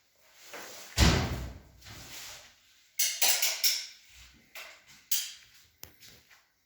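A heavy thud about a second in, followed by a quick cluster of sharp knocks and a few more single knocks: hard objects being bumped or set down.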